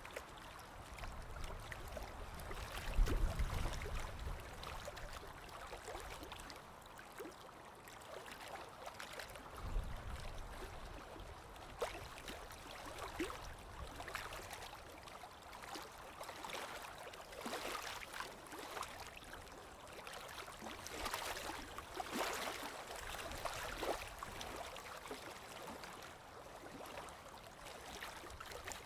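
Rain and trickling water ambience: a steady wash of noise scattered with small drips and patters, with a low rumble a few seconds in and again about ten seconds in.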